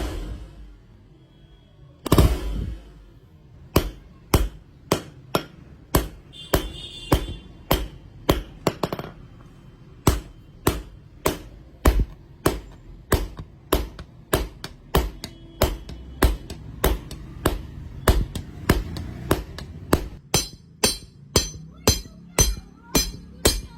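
Hand hammer striking a hot khukuri blade on an anvil, forging it out with steady blows about two a second. A metallic ring sounds over the blows near the end.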